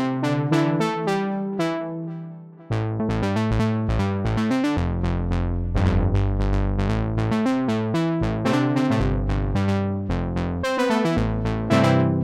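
Arturia Memory V synthesizer playing a patch of quick, bright plucked notes over held bass notes. The sound dies away about two seconds in, then starts again.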